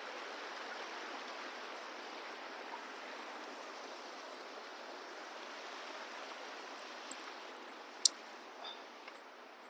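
A mountain river rushing steadily over rocks, with a sharp click about eight seconds in.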